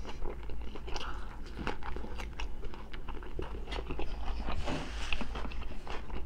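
Crunchy chewing of a raw cucumber piece: many quick crisp crunches.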